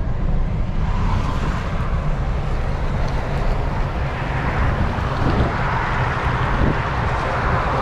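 Steady rushing of floodwater in a flowing wadi, under a heavy low rumble of wind buffeting the microphone. The rushing grows louder about halfway through.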